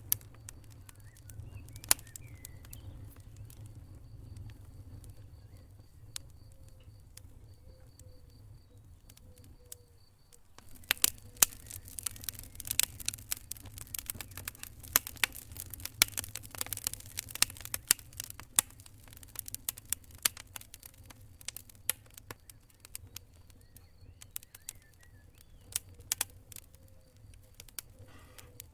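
Wood fire crackling in a fireplace: scattered sharp pops over a low rumble, growing into a dense spell of crackling about a third of the way through, then thinning out again.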